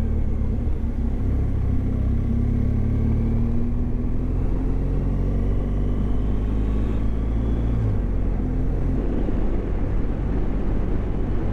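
BMW GS motorcycle engine running on the move, its pitch slowly rising for several seconds and then dropping about eight seconds in, over steady road and wind noise.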